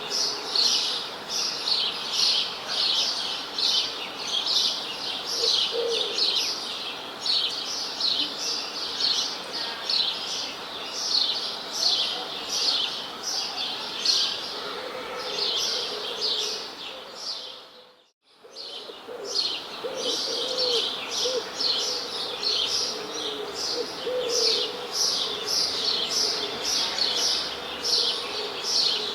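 A chorus of birds chirping: a dense, continuous run of quick high chirps, several a second. About two-thirds of the way through, the sound fades briefly to near silence and comes straight back.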